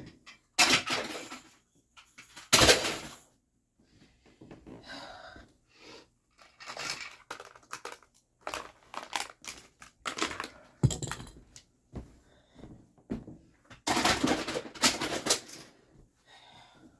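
Irregular rustling, crinkling and clattering of household items being handled. The loudest bursts come about a second in, near three seconds, and again around fourteen to fifteen seconds.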